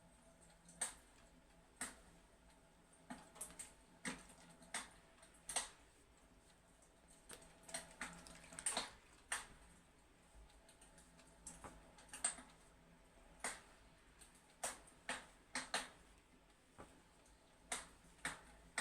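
Fireplace crackling: irregular sharp pops and snaps, one or two a second at uneven spacing, over a faint steady background.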